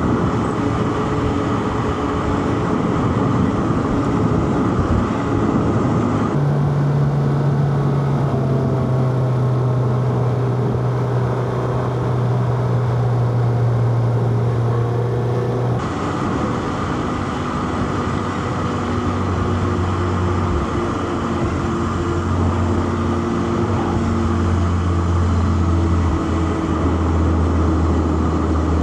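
Four-cylinder car engine running under way, with road and tyre noise. About six seconds in the engine note jumps to a higher pitch, and it steps down to a lower, deeper note about ten seconds later.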